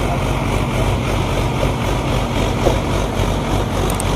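Sonalika DI 55 tractor's four-cylinder diesel engine running steadily under load, pulling a trolley full of soil.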